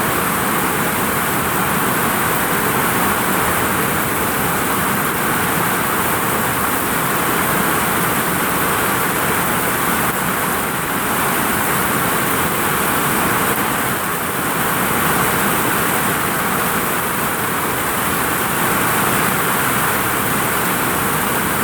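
Heavy rain pouring steadily onto a vinyl roof: a dense, even rush of water with no breaks.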